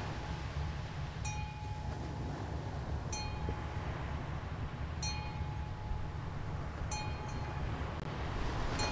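A bell-like chime rings out about every two seconds, each stroke a clear held tone with bright overtones, over a steady low rumble.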